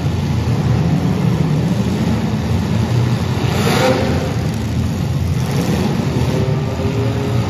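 Engines of welded compact demolition-derby cars running and revving as a steady loud rumble, with a brief louder burst of noise about halfway through.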